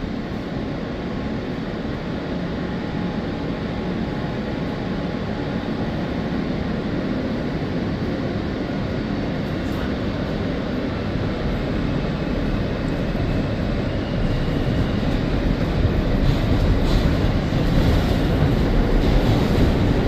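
New York City subway Z train running on the rails after the doors close, pulling out and gaining speed; its steady rail noise grows louder throughout, most of all from about two-thirds of the way in.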